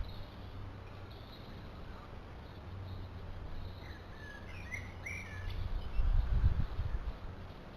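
Small birds at a feeder giving a few short chirps about halfway through. Near the end a low rumble, the loudest sound, cuts in briefly.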